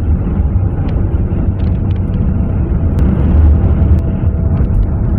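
Car driving on the highway: steady, loud road and engine rumble.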